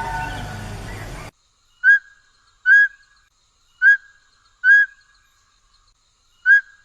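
A bird's call: five short, clear whistled notes, each sliding up and then holding briefly, spaced about a second apart with silence between. Before them a steady two-tone hum fades and cuts off suddenly about a second in.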